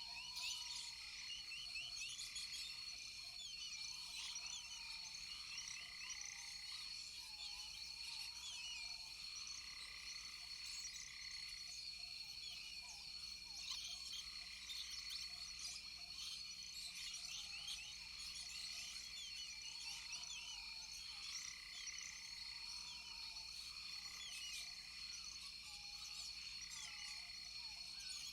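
Chorus of frogs and insects calling together: a steady high-pitched trill, a lower note that swells every couple of seconds, and many short chirps and croaks over it.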